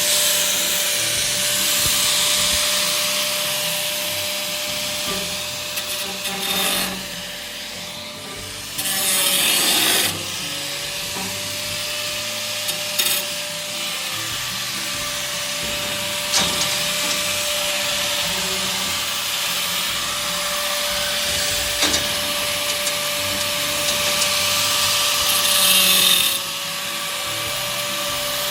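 A grinder running with a steady motor whine while its wheel grinds at a workpiece, a rasping hiss that swells and eases as the wheel is pressed on, with louder stretches around a third of the way in and near the end.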